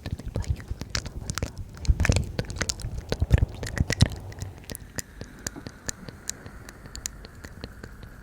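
Close-miked ASMR mouth sounds: a quick run of wet mouth clicks and tongue taps, dense for the first four seconds, then sparser and softer over a faint hiss.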